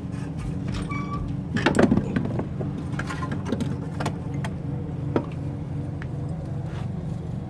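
Metal clinks and knocks, the loudest cluster about two seconds in, with a short metallic ring about a second in, over a steady low hum.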